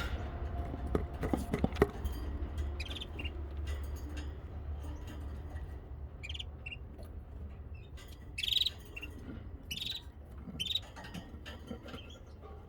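Baby birds chirping: short, high-pitched calls every second or two, over a steady low hum, with a few sharp knocks about a second or two in.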